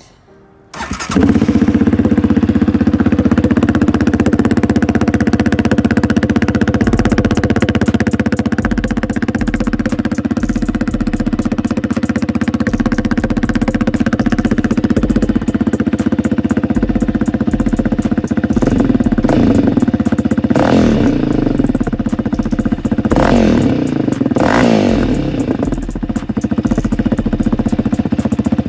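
Yamaha Raptor 700R sport quad's single-cylinder four-stroke engine cold-starting about a second in, through the stock exhaust with the spark arrestor removed. It idles steadily, then is revved about four times in quick blips.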